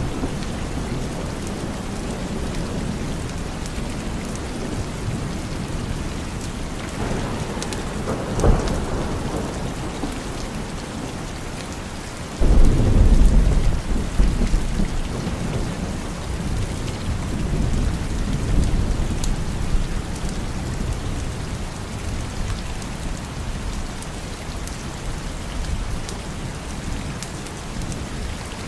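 Steady rain with thunder: a short sharp crack about a third of the way in, then a loud deep rumble of thunder that starts suddenly near the middle and rolls on for several seconds before fading back under the rain.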